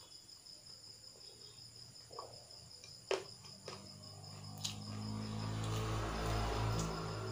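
Crickets trilling steadily, a high pulsing chirr, with a few sharp clicks of eating. In the second half a low hum swells up and is the loudest sound.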